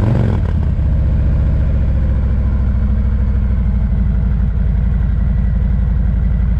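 Motorcycle engine idling steadily, a low, even beat that holds the same speed throughout.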